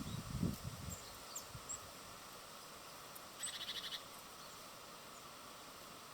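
Small birds calling: a few brief high chirps, then, about three and a half seconds in, a short rapid rattling call lasting about half a second. Low, gusty rumbles in the first second and a steady hiss lie underneath.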